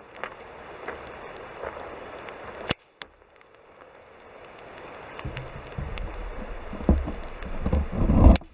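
Campfire burning, a soft steady hiss with sharp crackles and pops from the burning wood. From about five seconds in, low rumbling wind buffets the microphone, growing loudest near the end.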